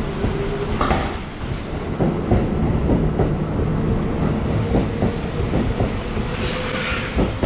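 Kintetsu 12400 series Sunny Car limited express pulling out of a station and gathering speed, a steady motor tone climbing slowly in pitch, with a run of wheel clacks over rail joints as its last cars pass.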